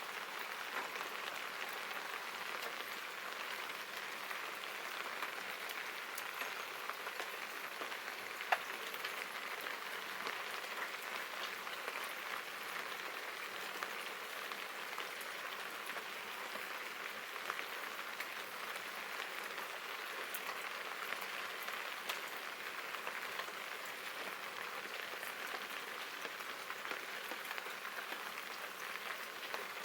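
Steady rain falling, an even patter without a break. About eight seconds in there is a single sharp click.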